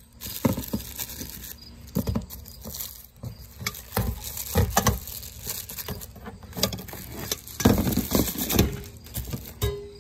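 Irregular knocks, taps and rustles from the ceiling fan's mounting bracket and packaging being handled.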